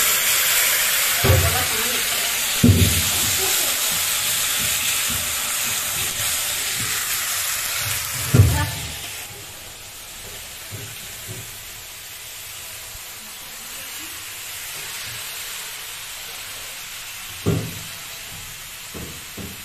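Food sizzling hard in a hot kadai as it is stirred with a ladle, with a few dull knocks of the ladle and pan. About nine seconds in the sizzle drops to a softer, steady hiss.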